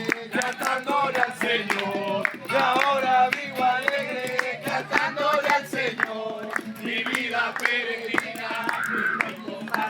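A group of voices singing a worship song together, with hand clapping keeping a steady beat.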